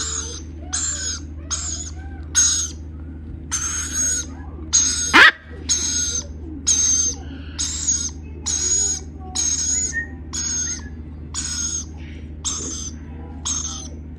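Lorikeet chicks giving harsh, raspy begging calls, repeated a little more than once a second. One loud sharp sound breaks in about five seconds in.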